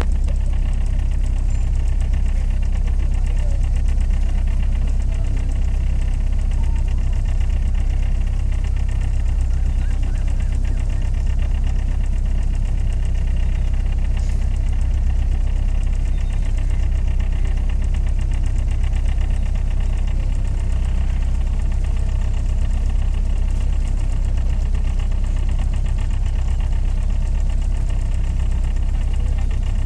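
A boat's engine running steadily, a constant low rumble with no change in speed.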